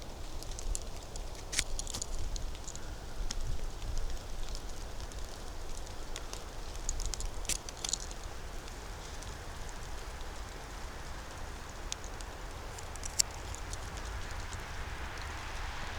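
Footsteps on a dry forest floor: scattered crackles and snaps of twigs and leaves, in clusters about 1.5, 7 and 13 seconds in, over a low steady rumble.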